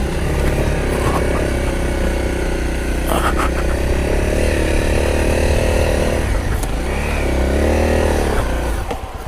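Honda CRF250 dirt bike's single-cylinder four-stroke engine running under way, its revs rising and falling as it is ridden.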